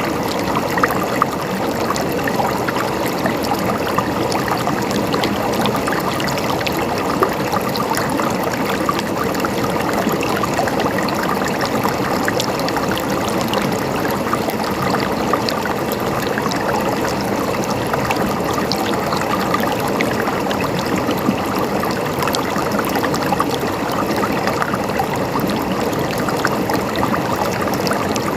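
River water running steadily over rocks: a continuous rushing flow with small splashes and trickles through it.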